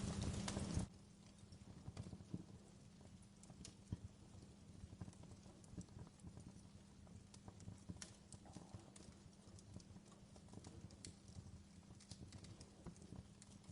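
Wood log fire in a fireplace crackling, with scattered sharp pops and snaps of varying strength. A louder, even noise fills the first second and then cuts off suddenly.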